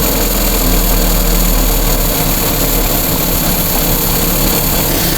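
Datsun pickup truck's freshly rebuilt engine running at a steady idle just after starting, its distributor timing newly reset.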